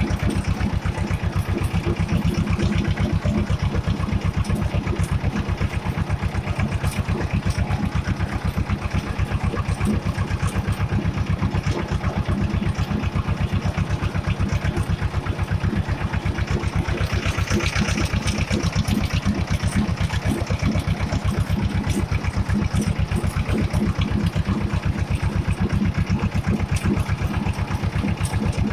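Escort 335 tractor's diesel engine running steadily on the road, a fast, even firing beat. A brief hiss swells over it about two-thirds of the way through.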